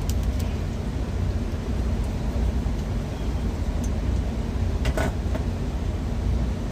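Steady low rumble of an idling truck engine, with a few short clicks and knocks of things being moved about: one near the start and a sharper one about five seconds in.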